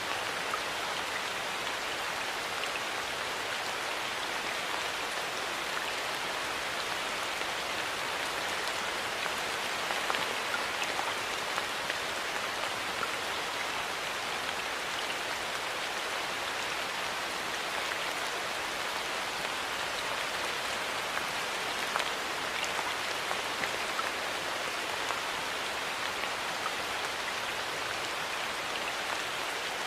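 Steady rain falling, an even hiss with many small drops ticking on hard surfaces.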